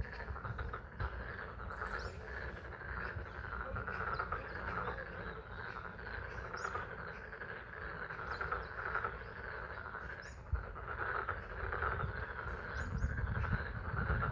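A pond frog chorus calling continuously, with spring rain falling.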